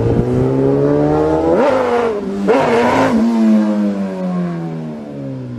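Sportbike engine revving sharply twice, then its pitch falls steadily and the sound fades away.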